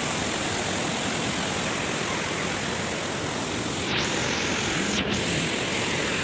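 Tall waterfall with water falling from a great height, a steady, even rush of noise.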